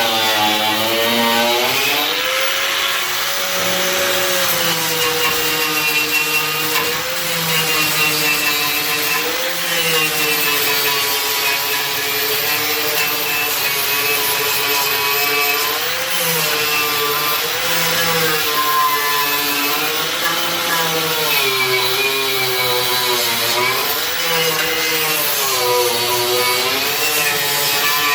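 Electric power tool cutting into car-body steel, its motor whine dipping in pitch each time it bites and recovering as the load eases.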